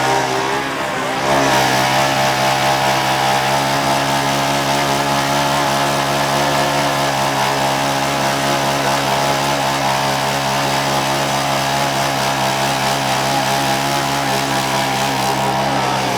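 Car engine held at steady high revs for about fifteen seconds, one unchanging pitch with a hissy edge, then cut off.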